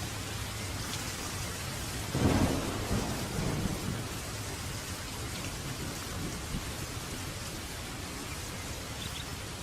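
Steady rain falling, with a short roll of thunder about two seconds in that rumbles for a couple of seconds and fades.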